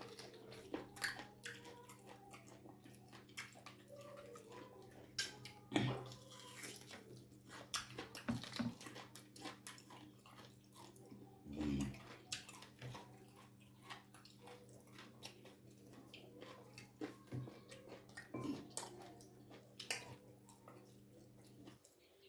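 A person eating boiled bone soup with ugali, chewing close to the microphone, with many small mouth clicks and a few louder wet smacks, over a steady low hum.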